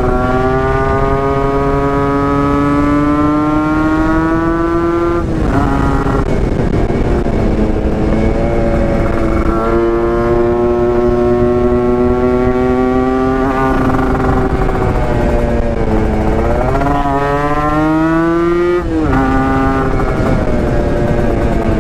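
Yamaha RX-King single-cylinder two-stroke engine with a modified stock expansion-chamber exhaust, accelerating under way. Its pitch climbs steadily through each gear and drops at upshifts about five seconds in, about ten seconds in and near the end. Around sixteen seconds in the throttle briefly eases before it climbs again.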